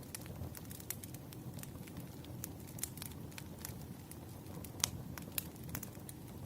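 Wood fire crackling: irregular sharp pops and snaps over a low, steady rumble of burning logs, with one louder pop a little under five seconds in.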